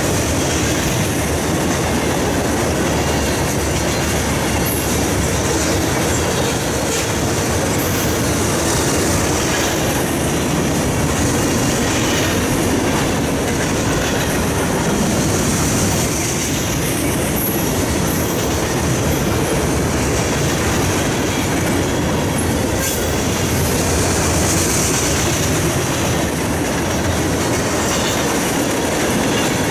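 Freight train's cars rolling past at close range, a steady rumble and clatter of steel wheels on rail, with a thin high wheel squeal that swells now and then.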